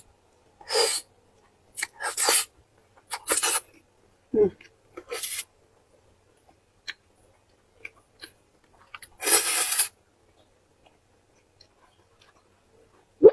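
Eating sounds from a mukbang mouth at close range: several short, sharp bursts in the first few seconds and one longer burst about nine seconds in, with quiet between.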